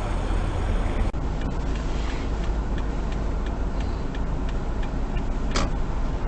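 Steady low rumble of a car on the road as picked up by a dashcam, with faint scattered ticks.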